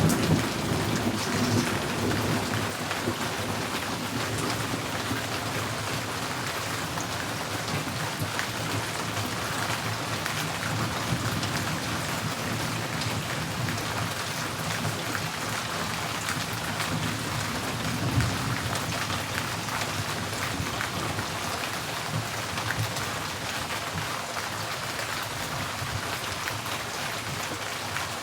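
Steady rain falling on a tin porch roof. Thunder rumbles at the start and fades over the first few seconds, with another short low rumble about 18 seconds in.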